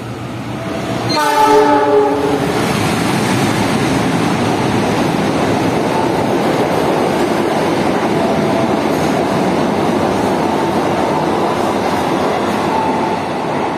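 The KA Purwojaya passenger express sounds its locomotive horn once, a chord lasting about a second, as it comes through the station without stopping. Then there is a steady rush of wheels and carriages on the rails as the train passes at speed, easing off near the end.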